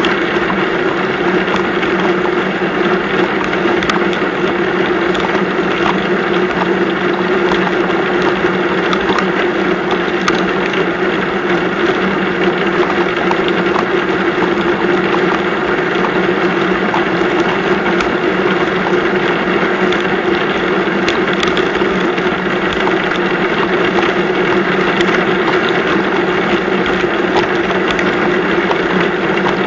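Heavy rain pouring down steadily, with scattered drops ticking close by.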